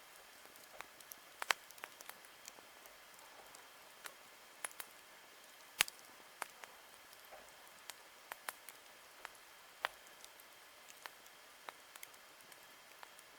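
Wood campfire crackling: sharp, irregular snaps and pops, one or two a second, the loudest about six seconds in, over a faint steady hiss.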